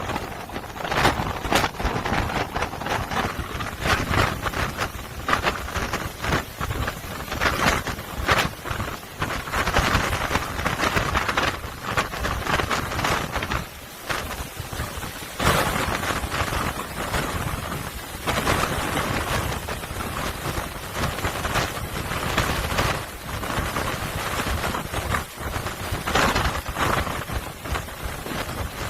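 Typhoon-driven storm waves crashing against and over a harbour sea wall: a continuous rush of water and spray broken by a heavy surge every second or two.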